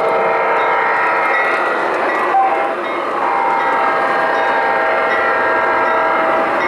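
O scale model train running on the layout, its onboard sound system playing locomotive sounds in steady tones over a rumbling bed, with a brief break about two and a half seconds in.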